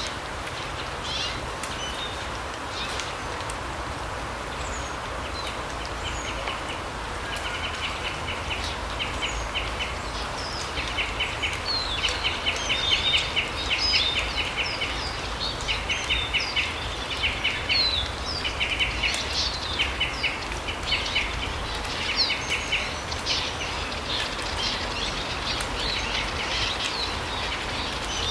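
Small forest birds calling: many short, rapid trills repeated again and again, densest through the middle, with scattered high chirps, over a steady background hiss.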